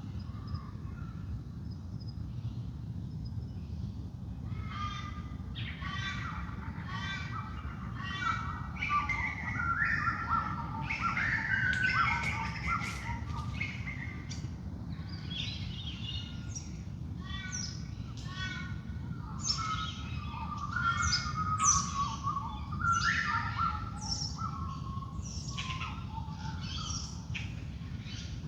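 Dawn chorus of wild birds, many short chirps and calls overlapping. It starts sparse and becomes busy from about four seconds in.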